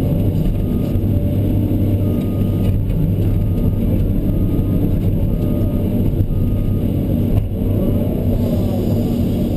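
Kobelco SK210 LC excavator's diesel engine running steadily, with a brief dip in level about seven and a half seconds in.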